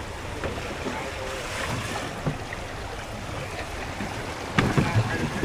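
Sea waves washing and wind buffeting the microphone, with scattered faint knocks and one louder knock near the end.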